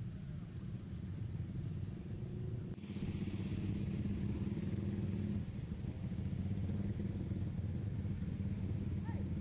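Steady low engine rumble, which changes character about three seconds in.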